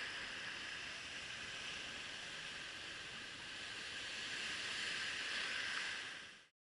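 Ocean surf washing on the beach, a steady hiss that swells a little near the end and then cuts off suddenly.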